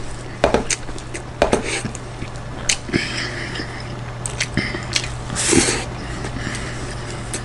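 Close-miked chewing and lip smacks of a person eating: a string of short clicks and smacks, with a longer noisy burst about five and a half seconds in, over a steady low hum.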